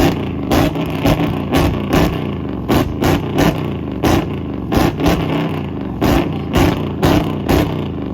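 Dodge Hellcat's supercharged V8 held on a two-step launch limiter: the exhaust fires loud pops and bangs about two to three times a second over the engine's steady drone. The engine drops back off the limiter at the very end.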